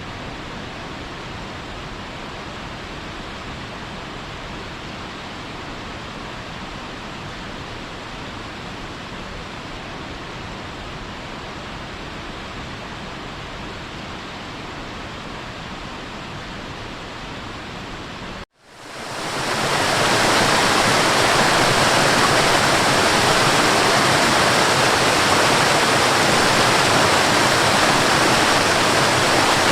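Waterfall, rushing water making a steady, even hiss. About two-thirds of the way through it cuts out for an instant, and a louder, brighter rush of falling water swells in and holds steady.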